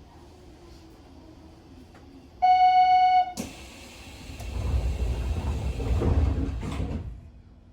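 Inside a Hanshin 9000 series train: a buzzer sounds one steady tone for about a second, then a sudden loud hiss of compressed air starts with a low rumble under it and stops sharply after about three seconds.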